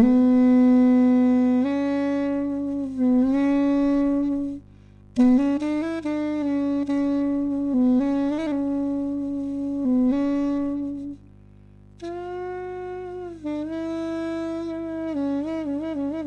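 A single wind instrument playing a slow solo melody of held notes in three phrases, with brief pauses between them and quick ornamented notes near the end.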